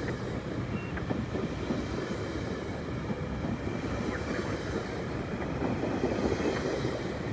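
GO Transit bilevel passenger coaches rolling past along the platform, a steady noise of steel wheels running on the rails.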